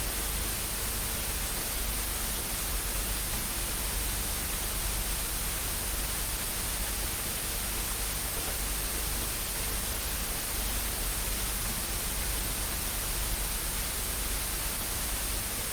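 Steady static hiss that does not change, with a faint low hum beneath it.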